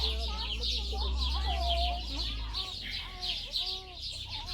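Birds calling: short arched calls over a steady high chirping that pulses about three times a second, with a low hum that stops about halfway through.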